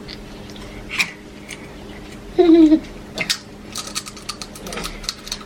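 Small clicks and crunches of eating, clustered about three and a half to five seconds in, with one short high-pitched falling vocal sound from a small child about two and a half seconds in.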